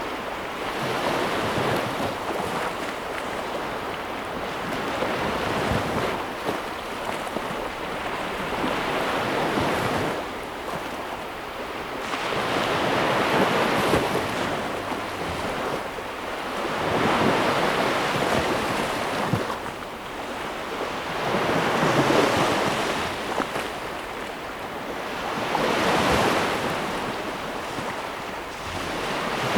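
Ocean waves breaking and washing on a shore, a steady rush of surf that swells and falls back every three to four seconds.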